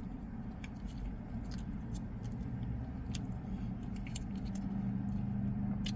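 Scattered light clicks and crinkles of a food wrapper being opened and handled, over a low steady engine hum that grows a little louder toward the end.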